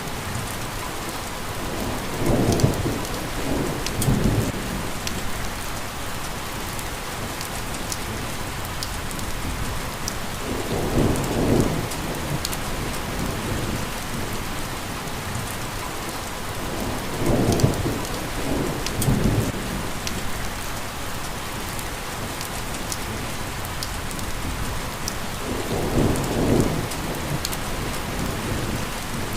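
Steady rain with a dense, even hiss and scattered drop ticks. Four times a low rumble swells up for a second or two and fades.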